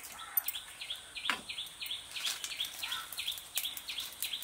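A small bird calling a quick run of short, high, repeated chirps, about four a second, with a single knock about a second in.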